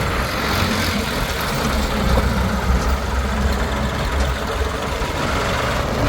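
Heavy diesel engine of a backhoe loader or tractor running steadily at low revs, with a deep, even engine rumble.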